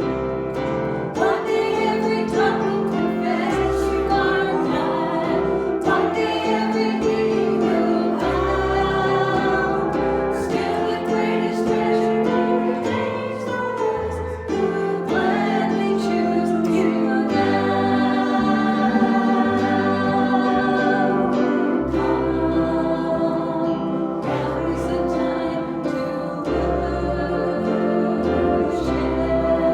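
Church congregation and choir singing a gospel hymn with instrumental accompaniment and a steady bass line.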